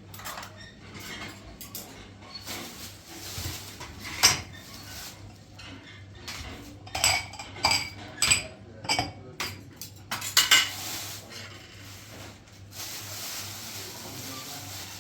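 Dishes and metal kitchenware clinking and clattering, a series of sharp ringing clinks that come thickest in the middle stretch, over a faint steady low hum.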